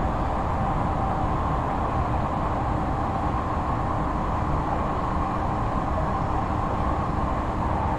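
Running noise inside an Odakyu 3000 series electric train motor car: a steady rumble of wheels on rail with an even hum, at a constant level with no change in pitch.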